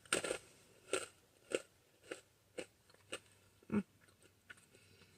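Close-up chewing and crunching of Whoppers malted milk balls, a crisp crunch about every half second that thins out and stops after about four seconds.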